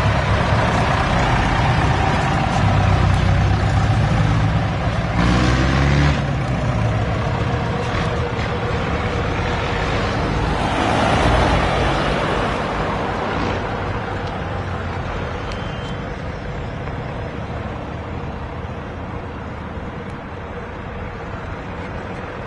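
Tractor engines running, a dense steady engine noise that slowly fades over the second half.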